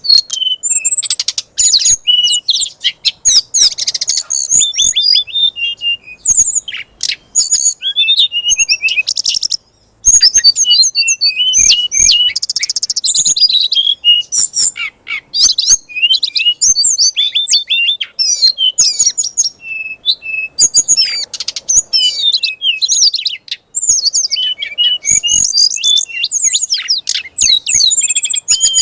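A songbird singing a fast, varied stream of high chirps, trills and whistles with only brief breaks: the aggressive 'fighter' song that Indonesian keepers play to provoke a kacer (oriental magpie-robin) into singing.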